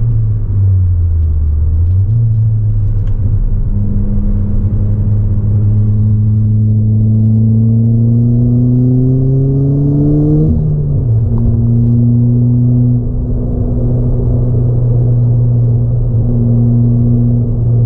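Ford Fiesta ST180's turbocharged 1.6 EcoBoost four-cylinder, with a 3-inch aftermarket exhaust and ITG intake, heard from inside the cabin while driven hard on track. Its note dips briefly near the start, then climbs steadily in pitch under acceleration for several seconds. It falls sharply at an upshift about ten seconds in, holds steady, and eases off again near the end.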